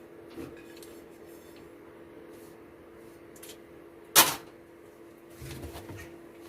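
A single sharp knock about four seconds in, over a steady hum, with a few faint clicks and knocks around it: things being handled and bumped in a workshop.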